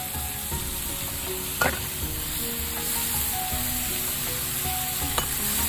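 Prawns and sliced bilimbi sizzling in a hot frying pan while a metal spatula stirs them, knocking sharply against the pan twice. Background music plays a soft melody over it.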